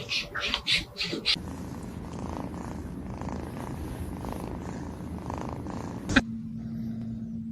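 Domestic cat purring close to the microphone, a steady rough rumble that swells about once a second with its breathing. It is preceded by a second of rustling clicks and cut off by a sharp click about six seconds in, after which a steady low hum remains.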